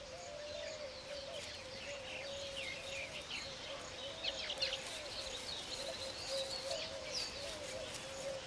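Weaver birds chirping and chattering: many short, quick, high calls over a low, wavering tone.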